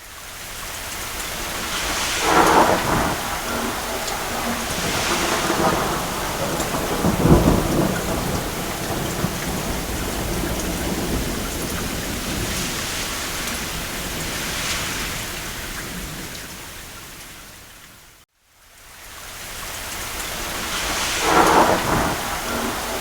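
Steady heavy rain with thunder rolling several times; the deepest, loudest rumble comes about a third of the way in. About three-quarters of the way through, the sound fades out to silence for a moment and fades back in.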